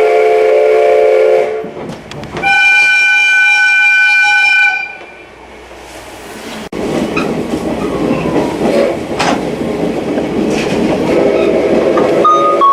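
Steam locomotive whistle blowing, C58 239 of the SL Ginga: a chord-like blast that cuts off about a second and a half in, then a clearer, higher-pitched blast of about two seconds. After that comes the noise of the train running, and near the end the whistle sounds again.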